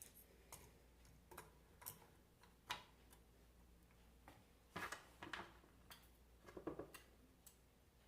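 Scattered light clicks and taps of small metal parts and hand tools being handled during reassembly of an alternator, with a few louder knocks near the middle and a quick cluster near the end, over a steady low hum.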